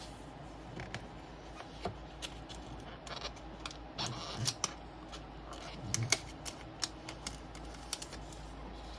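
Irregular light clicks and taps, about a dozen and a half, with two short clusters and a brief rustle near the middle: small tools and polarizer film being handled on a workbench.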